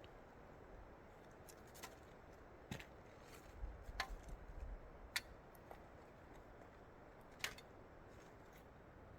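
A handful of sharp, brief clicks or snaps, about five spread irregularly, over a faint steady background hiss.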